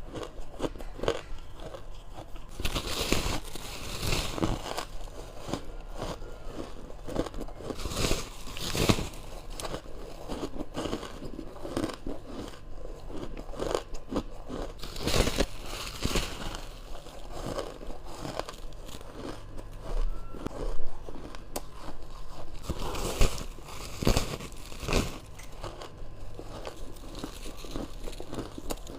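A person biting into ice close to the microphone: bursts of crisp crunching every few seconds, the loudest about two-thirds of the way through.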